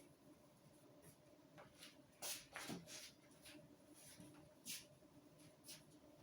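Faint rustling of kitchen towels being handled, a few soft swishes over low room tone.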